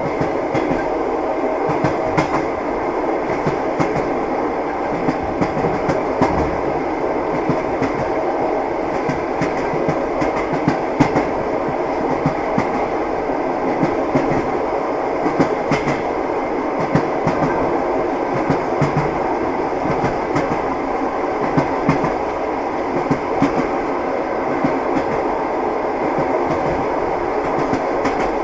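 Passenger train wheels clattering over the rail joints, heard from inside a carriage: a steady rumble of the moving train with frequent, irregular knocks.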